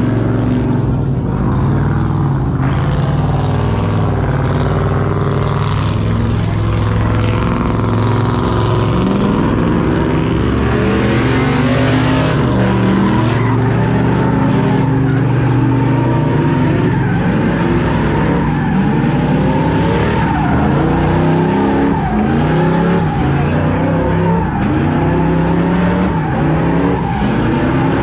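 Truck engine running loud and revving hard, its pitch rising and falling over and over, with tyres squealing.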